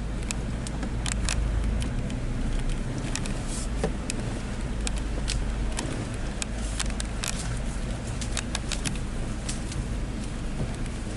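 Vehicle engine running steadily with a low hum, under many sharp, irregular clicks and rattles.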